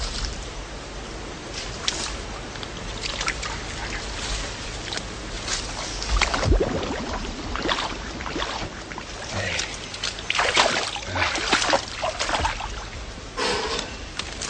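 Shallow creek water sloshing and splashing irregularly, with louder splashes about halfway through and again around two-thirds of the way in.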